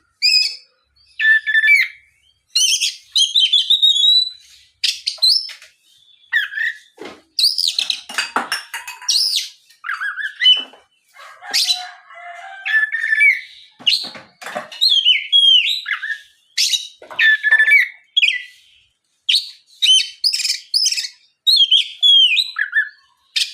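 Oriental magpie-robin (kacer) singing a loud, varied song in short phrases of clear whistles, slurred notes and harsh buzzy calls, with brief pauses between phrases.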